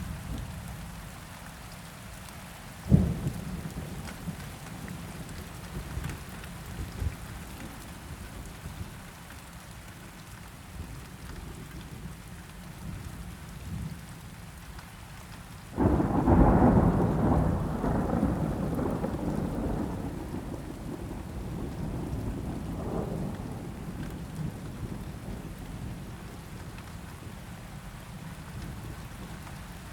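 Steady rainfall with thunder: a short sharp crack about three seconds in, then about halfway through a sudden loud rumble that rolls and slowly fades over several seconds, with a smaller swell a few seconds later.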